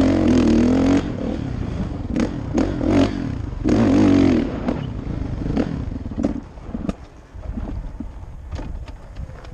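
2016 Kawasaki KX450F single-cylinder four-stroke dirt bike engine revving in two loud bursts of throttle, with its pitch wavering, then running lower and quieter from about halfway through. Scattered sharp clattering knocks are heard throughout.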